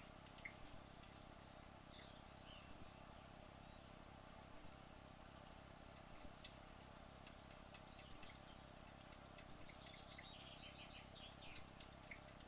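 Near silence: a faint steady hum with scattered faint, short high chirps, and a quick run of them near the end.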